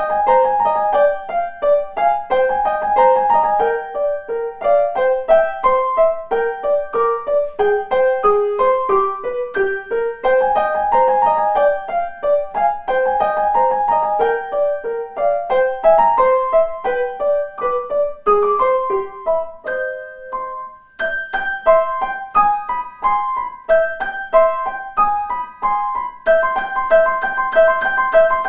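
Solo piano playing a lively piece of quick, short, separate notes in the middle register, with a brief break in the flow about 20 seconds in before the running notes resume.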